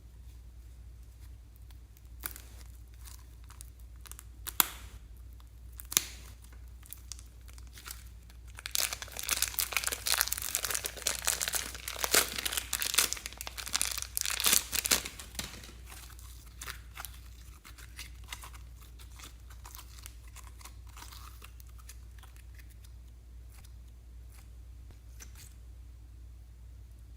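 Crinkling and crackling from slime and plastic being worked by hand. A few sharp clicks come first, then a dense burst of crackling lasts about seven seconds in the middle.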